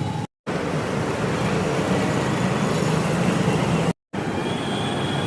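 Steady roadside traffic noise, broken twice by a sudden moment of dead silence where the clips are cut together.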